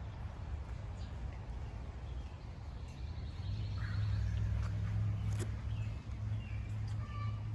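Birds chirping, with short high calls scattered through and a fast high trill about three seconds in, over a steady low hum.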